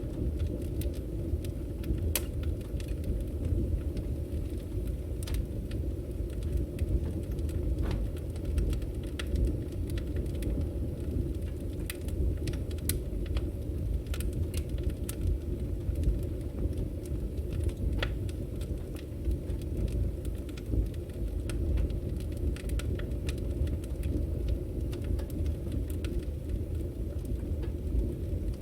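Wood fire burning: a steady low rumble of the flames with scattered, irregular sharp crackles and pops from the burning logs.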